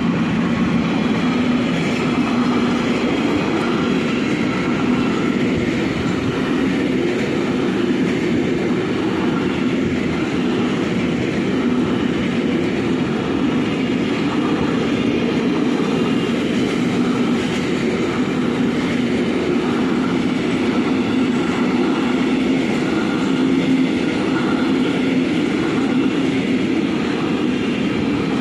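Intermodal freight train of container and tank-container wagons rolling past at close range: a steady, loud noise of steel wheels on the rails with clickety-clack from the wagons.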